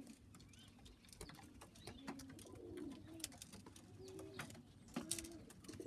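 Pigeons cooing softly in a loft aviary: a string of low, rising-and-falling coos, with scattered light clicks.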